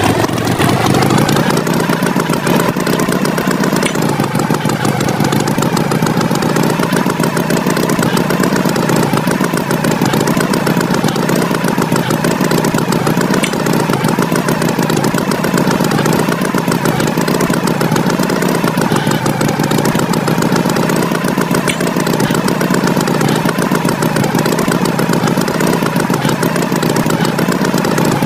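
An engine running steadily at a constant speed, its pitch wavering slightly.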